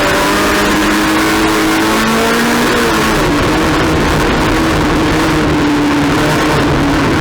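Race car engine running hard under load, its note climbing slowly and then dropping about three seconds in, over loud road and wind noise.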